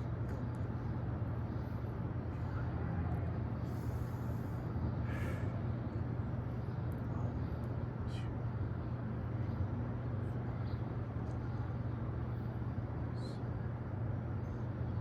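Outdoor city background on a rooftop: a steady low hum under an even rumble, with a few faint ticks.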